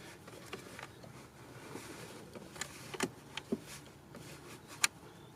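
Faint scattered metallic clicks and handling noise as small Torx bolts are threaded in by hand with a socket, the clearest clicks about three seconds in and near the end.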